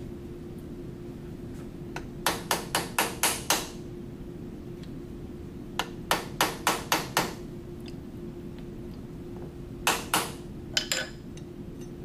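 Hammer tapping a milling fixture down in a machine vise to seat it on the parallels: three runs of quick, sharp, ringing taps, about six strokes each in the first two runs and a few near the end, over a steady hum.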